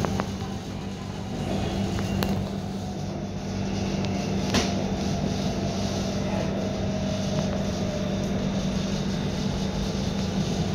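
Cabin noise of an elevated metro train in motion: a steady rumble with a constant low hum, a faint slowly falling whine in the middle, and a couple of sharp clicks, the clearest about four and a half seconds in.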